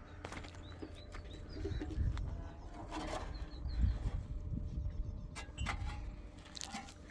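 Outdoor ambience: a steady low rumble with a few short, high bird chirps and scattered clicks and knocks.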